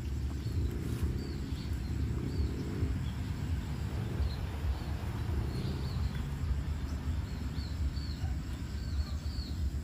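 Steady low outdoor rumble with many faint, short, high bird chirps scattered through it.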